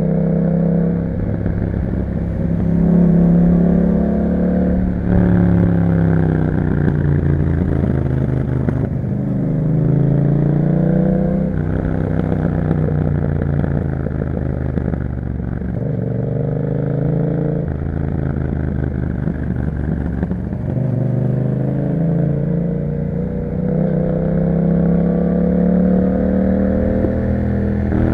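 2021 Yamaha MT-07's 689 cc parallel-twin engine through an Akrapovič exhaust, heard while riding. The revs climb and drop sharply several times as the bike accelerates and eases off.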